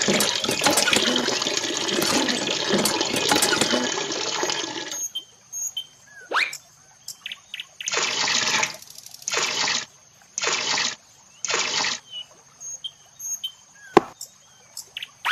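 Water pouring and splashing steadily, then stopping about five seconds in, followed by four short gushes of water roughly a second apart and a single sharp click near the end.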